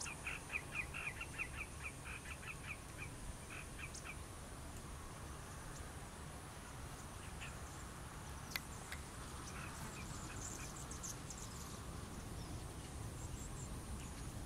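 Birds calling: a quick run of harsh repeated notes, about five a second, for the first three to four seconds, then a few scattered calls and some thin high chirps, over a steady low rumble. A single sharp click comes about halfway through.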